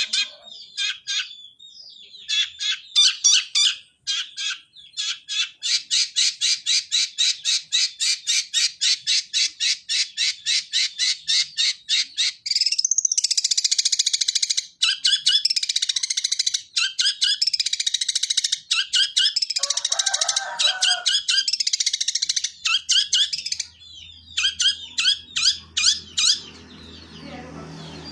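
Long-tailed shrike (cendet) singing in sparrow-like chirps mimicking the Eurasian tree sparrow: a long run of rapid repeated chirps at about four a second, then a dense unbroken chatter, then scattered chirps near the end.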